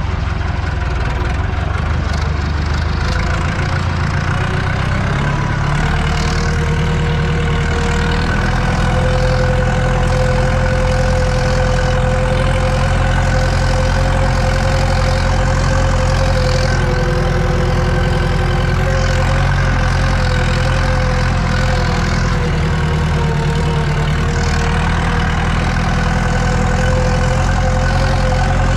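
Eicher tractor's diesel engine running steadily under load while pulling a cultivator, heard from inside the cab, with a whine over the engine note. The engine note rises slightly about six seconds in and again about nine seconds in.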